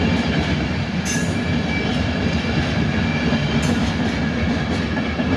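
Class 91 electric locomotive and Mark 4 coaches running, a steady low rumble with an electric hum of several steady tones. Brief high squeals come about a second in and again about three and a half seconds in.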